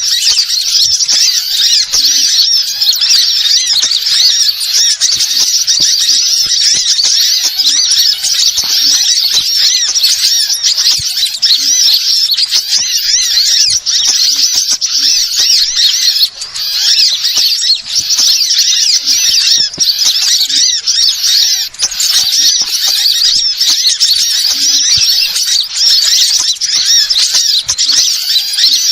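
Small songbirds twittering without pause, a dense run of rapid high chirps and trills, briefly dropping away about halfway through: a lure-call recording for attracting wild birds.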